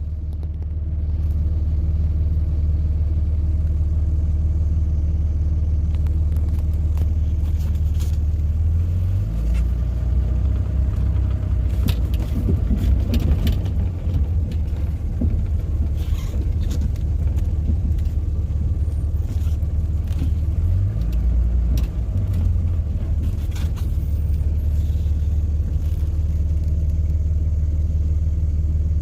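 Steady low rumble of a vehicle engine running, its pitch shifting twice, with a few faint clicks in the middle.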